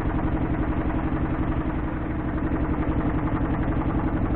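Small boat engine running steadily with an even, rapid chug.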